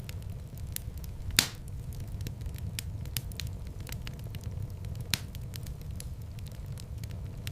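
Wood fire burning in a fireplace: a steady low rumble of flames with scattered sharp crackles, and a louder pop about a second and a half in and another about five seconds in.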